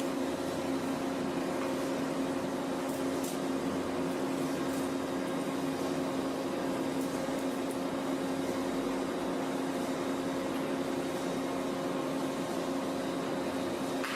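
A machine running steadily with a constant, even hum and hiss, its pitch unchanging, with a few faint ticks over it.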